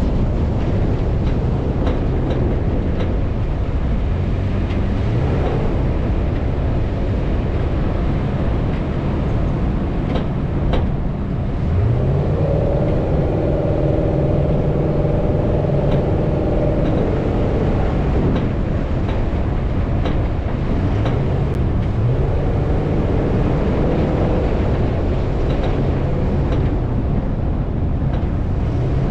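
Off-road vehicle engine driving over desert sand. Its revs climb and level off again and again, about four times, over a constant rumble of wind and tyre noise.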